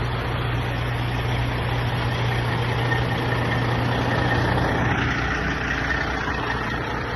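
Heavy truck engine idling, a steady low hum that shifts in tone about five seconds in.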